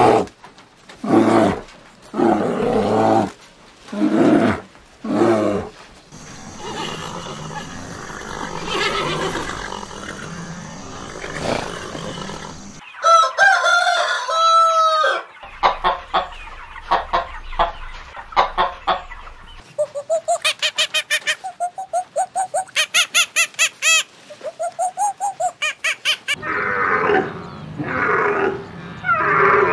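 A rooster crowing once about halfway through, followed by hens clucking in quick, even repeats for several seconds. It is set between other animal calls: a run of about five loud calls roughly a second apart at the start, and a different pitched call near the end.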